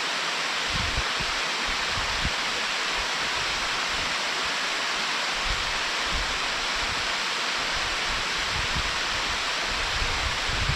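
Mountain stream rushing and pouring over a check dam just above a waterfall: a steady, even, full-bodied water noise, with irregular faint low rumbles underneath.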